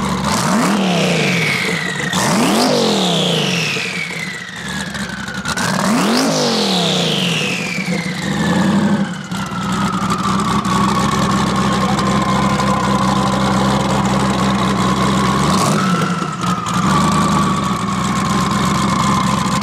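Twin-turbo Dodge Demon V8 idling and blipped several times in quick succession, each rev followed by a high turbo whistle that falls slowly in pitch as the turbos spool down. One long whistle dies away over several seconds, and a smaller rev comes about sixteen seconds in.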